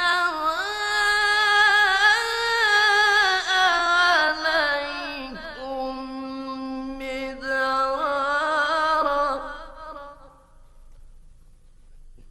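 A male Quran reciter's voice chanting a long melodic tajweed phrase, with sustained, ornamented notes gliding up and down in pitch, fading out about ten seconds in.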